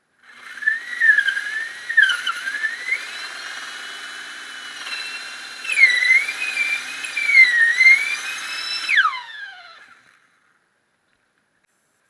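A small high-speed power tool with a wheel whines, its pitch dipping and recovering repeatedly as it is pressed into the work. About nine seconds in it is switched off, and the whine falls away quickly and fades out.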